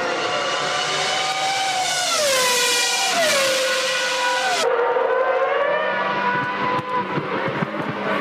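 Formula One car's high-revving V10 engine, its pitch dropping in steps through downshifts under braking about two to four seconds in, then running again at steadier revs with a duller tone after a sudden change about halfway.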